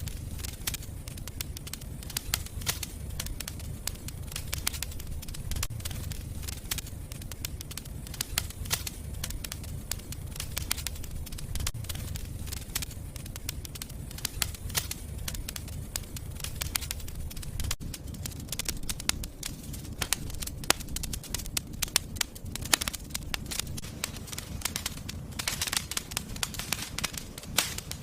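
Wood fire burning in a fireplace: a low rumble of flames with frequent irregular crackles and pops.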